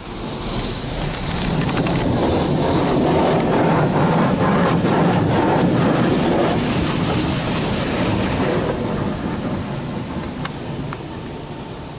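Hanna Jim Coleman Water Wizard 2.0 automatic car wash rinsing the car: high-pressure water jets drumming on the body, heard from inside the car. The spray builds up over the first couple of seconds and eases off after about eight seconds as the jets move on.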